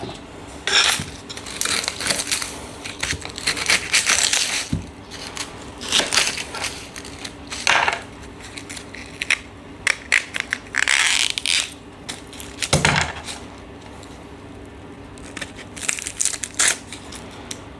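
Dry onion skins being peeled and crinkled by hand: irregular crackling rustles and sharp clicks, with a dull knock about thirteen seconds in.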